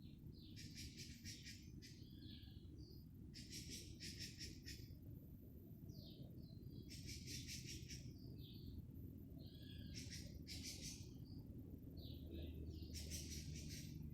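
Birds singing: rapid trilled phrases about every three seconds with short chirps between, faint over a steady low background rumble.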